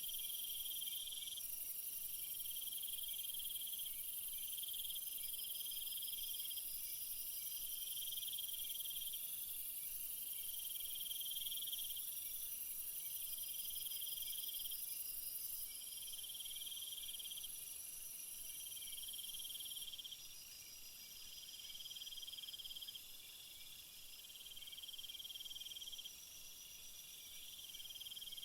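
Chorus of crickets and other insects. One insect trills in bursts of about a second and a half, roughly every two seconds, over a steady high-pitched insect drone that grows a little quieter about two-thirds of the way in.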